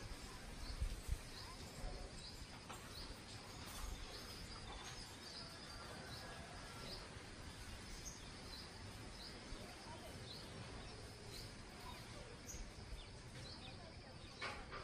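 Outdoor background noise with small birds chirping repeatedly in short, high calls, and a couple of low bumps about a second in.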